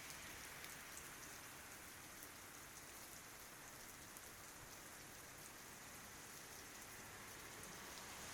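Faint, steady rain falling on tree leaves, an even hiss with scattered light drop ticks.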